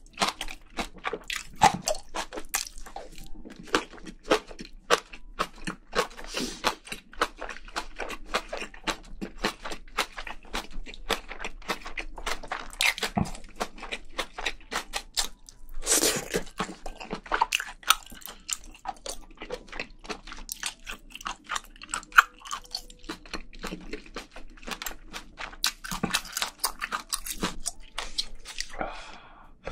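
Close-miked chewing and crunching of a mouthful of spicy braised seafood with bean sprouts and rice: a dense, uneven run of wet clicks and crunches, with one louder burst about halfway through.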